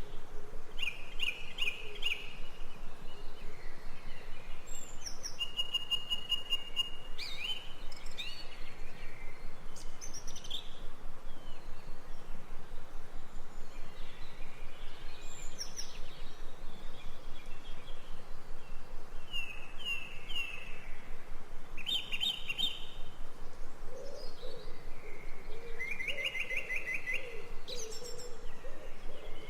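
Birds chirping and singing in short trilled phrases, heard again and again, over a faint steady hiss. From about two-thirds of the way in, a lower wavering call joins them.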